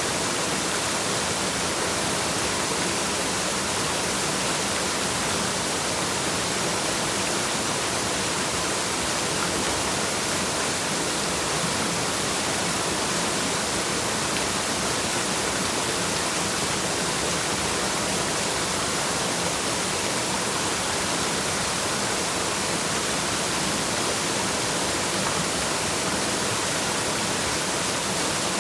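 Waterfall rushing: a steady, even hiss of falling water that stays the same throughout.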